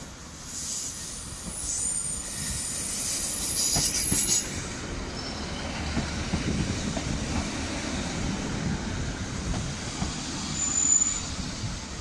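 Class 156 diesel multiple unit arriving and running slowly along the platform. A high metallic wheel squeal in the first few seconds gives way to the low rumble of its underfloor diesel engines and wheels, growing louder as the coaches pass close by.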